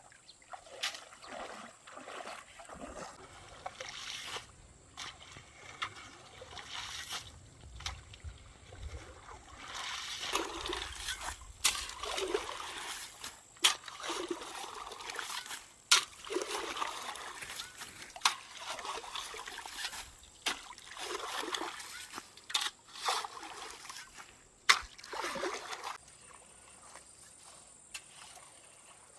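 Irregular splashing and sloshing in shallow stream water, with sharp slaps now and then. It stops near the end.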